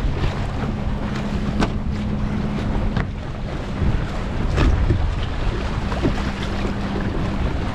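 Wind buffeting the microphone and water rushing along the hull of a small sailboat under way, with a few sharp splashes as waves slap the hull. A steady low hum runs under it and stops near the end.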